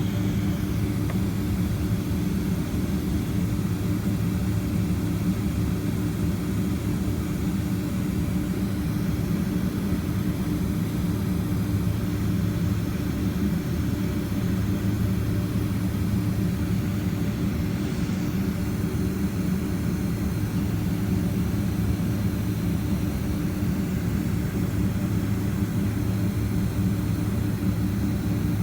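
Steady drone of a Boeing 767-300ER's jet engines heard inside the cabin: an even low hum with a few steady tones over a rushing noise, holding the same level throughout.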